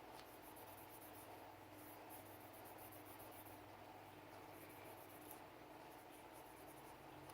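Faint scratchy rubbing strokes from cleaning a Sig Sauer P320 pistol, coming in short clusters over a steady low hum.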